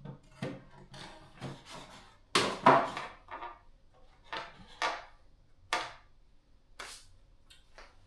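Tools and bicycle parts being handled and set down: a string of irregular knocks and clatter, loudest about two and a half seconds in.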